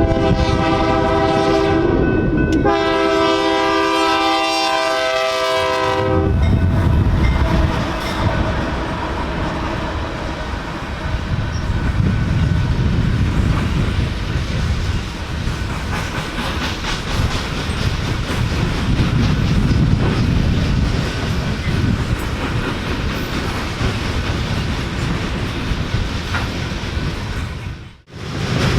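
Locomotive air horn sounding a chord of several tones, one blast ending about two seconds in and a longer one following until about six seconds in. Then the train runs past, a steady loud rumble with the clatter of wheels over rail joints.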